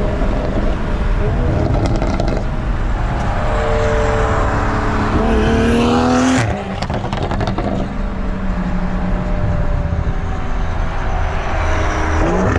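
Toyota GR Supra's tuned B58 turbocharged inline-six, straight-piped with a catless downpipe, accelerating: the exhaust note climbs in pitch, drops off sharply about six seconds in, and climbs again near the end.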